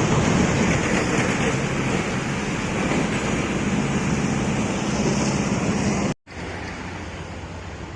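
Road traffic with heavy vehicle engines running, a steady loud drone with a low engine hum. It cuts off abruptly about six seconds in and comes back quieter.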